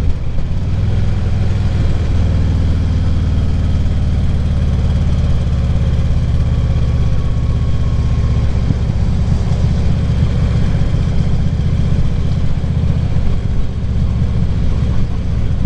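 Vehicle engine running steadily while under way, its low note changing a couple of times as the throttle or gear changes.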